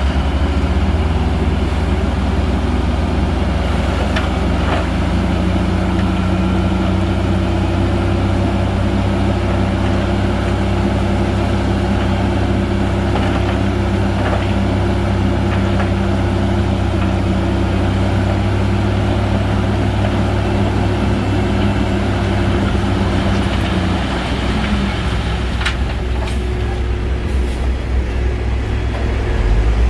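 Heavy diesel engine of a Shantui bulldozer running steadily under load, a deep drone that eases off about three quarters of the way through.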